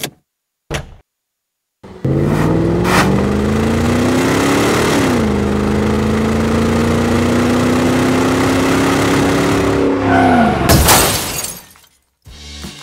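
Car engine sound effect revving up through the gears. It starts about two seconds in, climbs in pitch, drops at a gear change about five seconds in, then climbs slowly again before cutting off with a short noisy burst near the end.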